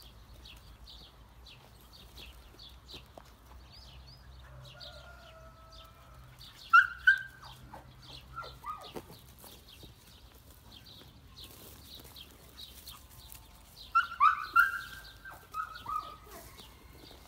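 Small birds chirping over and over in the background, with two louder runs of falling calls about seven and fourteen seconds in.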